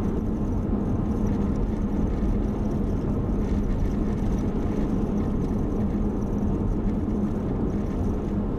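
Car engine and road noise heard from inside the cabin, a steady low rumble with a constant hum while the car climbs a mountain pass.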